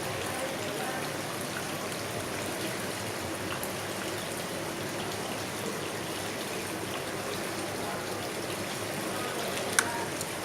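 Steady hiss of background noise, like running water, with one sharp click near the end.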